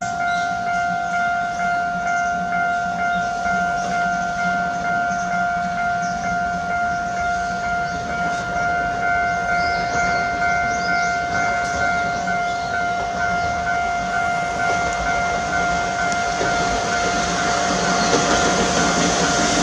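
A steady electronic warning tone sounds over rain noise while the steam-hauled train approaches. The rumble of the train grows louder over the last few seconds as it nears to pass straight through the station.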